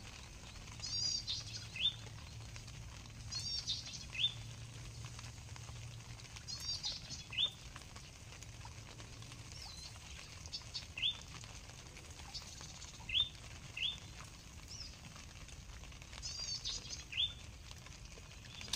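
A bird calling over and over: a quick run of high chirps followed by a single rising whistle, repeated every few seconds, sometimes the whistle alone. A faint low hum sits underneath through the first half.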